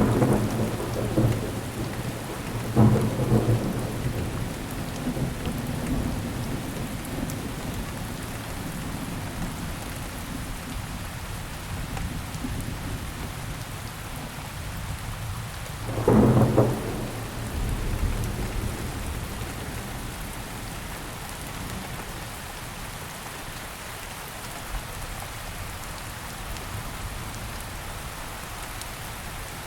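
Steady rain with thunder: a low rumble at the start, another clap about three seconds in, and a louder one about halfway through, each rolling away over a few seconds.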